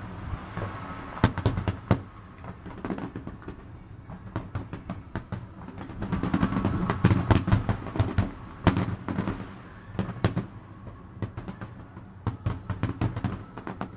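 Fireworks going off: an irregular run of sharp bangs and crackles over a low rumble, thickest and loudest about halfway through.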